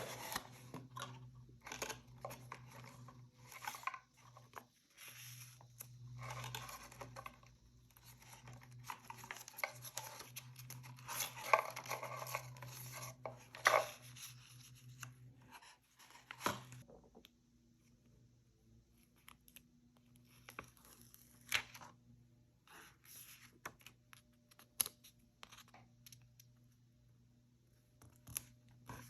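Paper being handled for a craft journal, with bursts of rustling and tearing through the first half, then sparse light clicks and taps.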